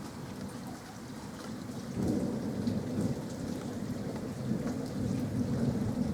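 Rain falling steadily with scattered drips, then a rumble of thunder that rolls in suddenly about two seconds in and keeps rumbling, swelling again near the end.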